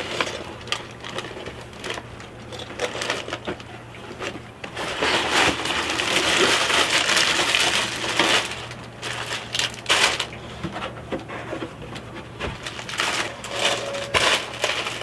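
Objects and packaging being handled: a run of clicks, knocks and light clatter, with a longer stretch of loud rustling in the middle.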